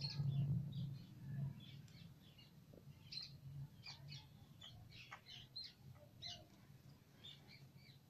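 Birds chirping: many short, high chirps scattered throughout, over a low rumble that is loudest in the first second and a half.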